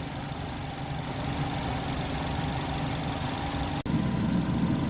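A 2010 Chevrolet HHR's four-cylinder engine idling steadily while it warms up, coolant at about 77 °C with the thermostat not yet open. About four seconds in the sound drops out for an instant, and then it is slightly louder.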